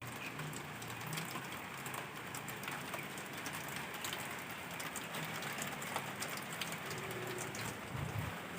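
Rain falling steadily, with many small drops pattering and ticking on a surface.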